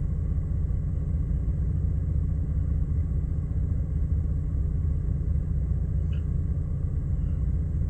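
2006 Jeep Liberty's 3.7 L V6 idling with a steady, even low rumble, after new ignition coils and injectors: it is no longer misfiring as it was.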